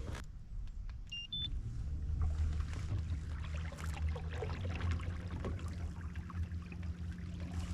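Small electric motor on a kayak starting after two short electronic beeps, then humming steadily at an even pitch, with faint water splashing.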